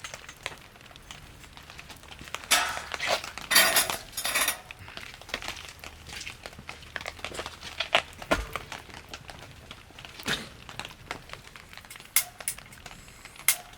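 Irregular clinks and light knocks of small hard objects being handled, with a few short bursts of rustling near the start.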